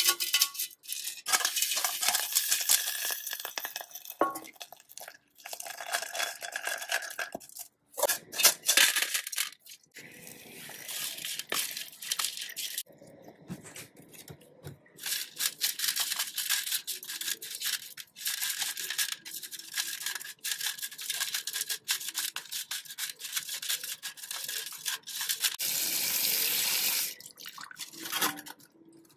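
Hand scrubbing of a sewing-machine part with a brush, in stretches of repeated strokes broken by short pauses, with small clicks and clinks between them.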